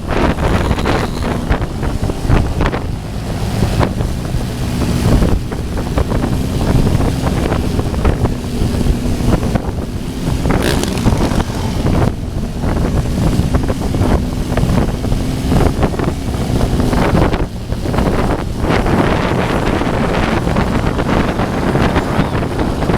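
Motorcycle engines running on the move, buried under heavy wind rumble on the microphone. A faint steady engine tone holds for much of the time.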